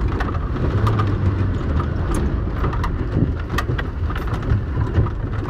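Suzuki Samurai driving on a rough dirt track, heard from inside the cab: a steady low engine drone with scattered knocks and rattles from the body and suspension over the bumps.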